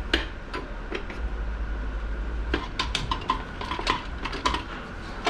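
Metal transmission parts clinking and tapping against each other as internals are fitted into a Ford AOD transmission, a handful of sharp ticks at first and a busier run of light ringing clinks in the middle.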